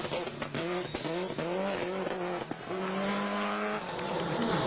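Rally car engine revving hard, its pitch climbing and falling again with each gear change, with a held note about three seconds in and a few short sharp cracks between the shifts.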